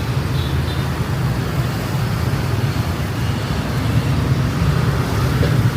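Street traffic of motorbikes passing close by, a steady low rumble of engines with no single vehicle standing out.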